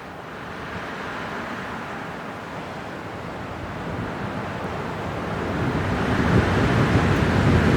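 Winter wind blowing in a gust that builds steadily louder, turning into a deep rumble toward the end.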